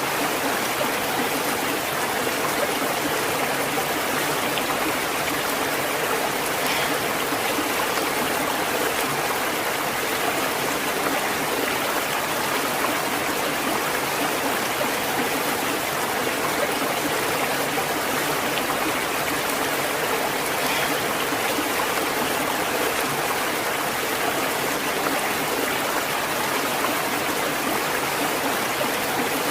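Natural flowing water, a steady even rush of water without pauses or changes.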